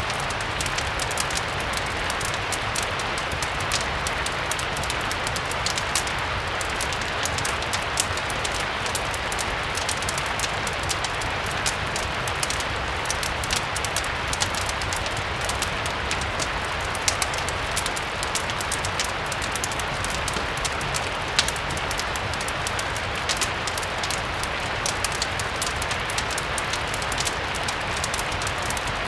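Steady rain mixed with the scattered small pops and crackles of a fireplace, over a low steady rumble.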